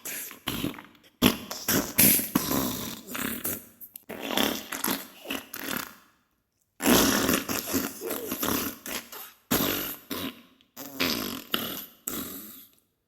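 Diarrhea sound effect: a run of farting bursts of uneven length, broken by a short silence about six seconds in.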